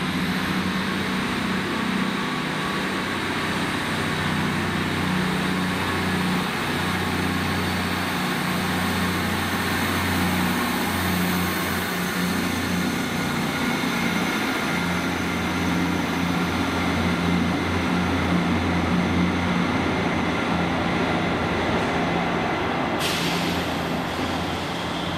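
A train standing at a station platform with its engine running, giving a steady low drone.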